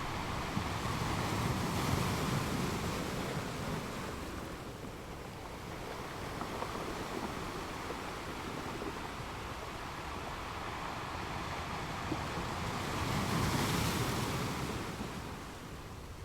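Ocean waves breaking on a beach, a continuous wash of surf. It swells as a wave breaks about two seconds in and again more strongly near the end.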